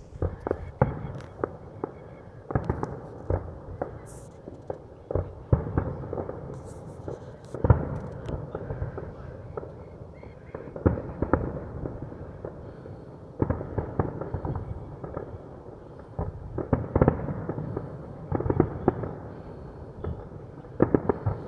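Fireworks exploding: an irregular run of bangs and crackles, with the odd high fizz of a rising shell.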